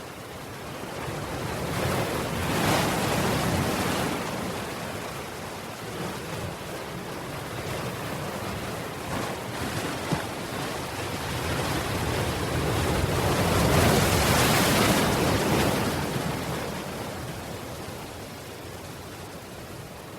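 Sea waves surging in twice. The first swell comes a couple of seconds in, and a louder, longer one comes past the middle. Each rises and fades back to a steady wash.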